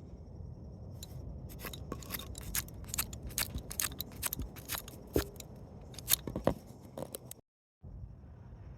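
Irregular sharp clicks and scrapes of hand tools and metal parts during the teardown of a rusty Chevrolet 307 small-block V8, starting about a second in and stopping abruptly near the end.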